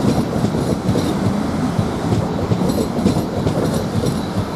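Three coupled Class 450 Desiro electric multiple units rolling past at the platform: a steady rumble of wheels on rail with scattered clicks as the bogies cross rail joints.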